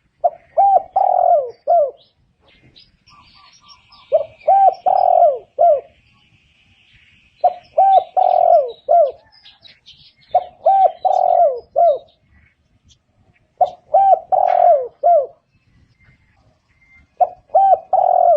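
Spotted dove cooing: six phrases about three seconds apart, each a few short coos around a longer middle coo. It is the dove's repeated advertising call, used as a lure to draw other doves in. Faint high chirps from smaller birds come between the first few phrases.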